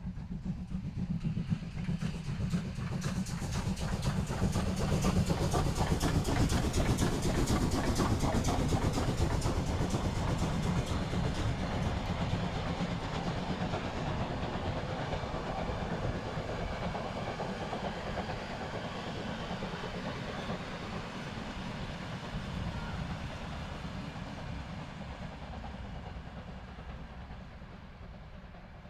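Passenger train of vintage green coaches passing on the line: a low rumble with the rhythmic clickety-clack of wheels over rail joints, building to its loudest a few seconds in, then slowly fading away as the last coaches pass.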